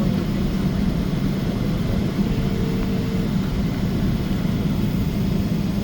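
Steady engine and airflow rumble heard inside the cabin of a Boeing 777-300 airliner. A faint steady tone sounds for about a second, a couple of seconds in.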